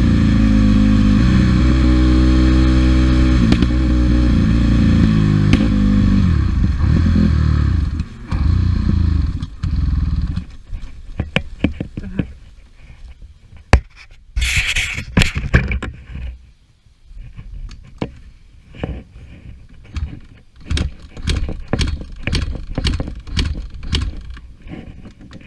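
Dirt bike engine running, then sputtering and cutting out about eight seconds in as the bike runs out of fuel. Irregular clicks and knocks follow, with a brief rushing noise midway.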